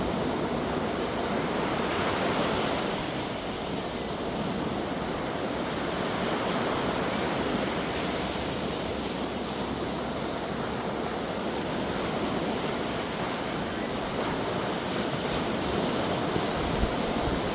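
Sea waves washing onto a shore in a breeze: a steady rushing wash that swells and eases slowly, with a brief low thump near the end.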